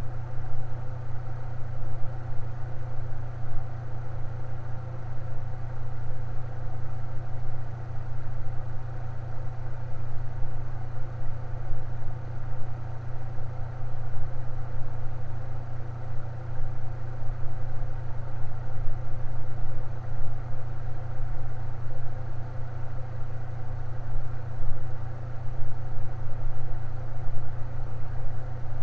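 Electric fan running steadily, with a strong low hum under a fainter whoosh.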